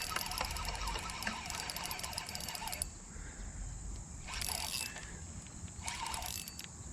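Fishing reel clicking as a hooked fish is fought. A dense run of fine clicks stops about three seconds in, then short bursts of clicking come twice more.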